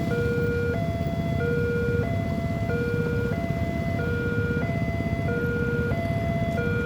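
Railway level-crossing warning alarm sounding a steady two-tone electronic chime, a low note and a higher note alternating about every 0.6 s, over a continuous low rumble.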